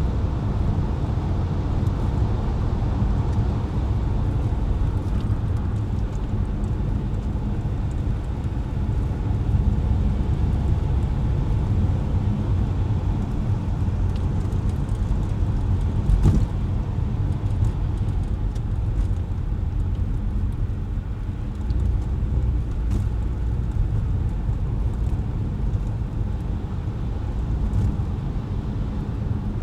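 Car driving on wet, slushy city streets: a steady low rumble of engine and tyres with road hiss, and a single short knock about 16 seconds in.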